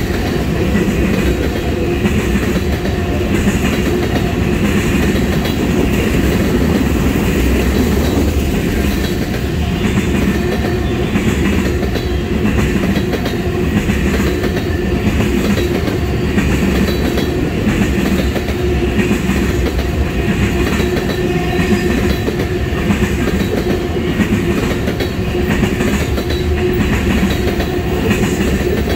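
Railroad tank cars of an oil train rolling past close by: a steady rumble of steel wheels on rail, with repeated wheel clicks over the track.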